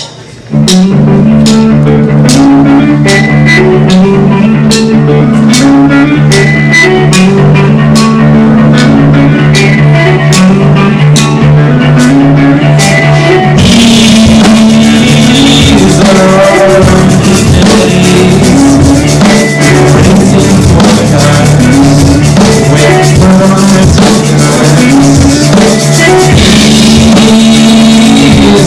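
A live rock band playing at full loudness, with drum kit and guitar. It opens on a riff over regular cymbal ticks about twice a second, and the full band with crashing cymbals comes in about halfway. The recording is poor, which the uploader calls bad sound.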